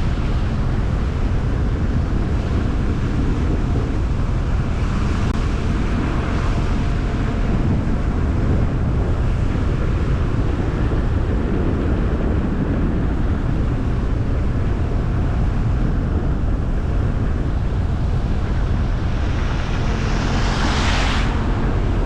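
A car driving along a winter road: a steady low rumble of tyres and engine with wind buffeting the microphone. About twenty seconds in, a brief rushing swell rises and fades.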